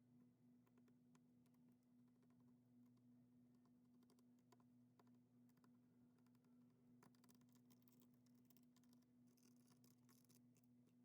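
Near silence: faint scattered small clicks and ticks, busier for a few seconds past the middle, over a steady low hum.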